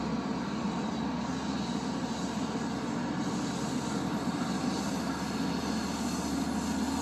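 Steady low rumble of an Exo commuter train, even throughout with a faint hiss above it.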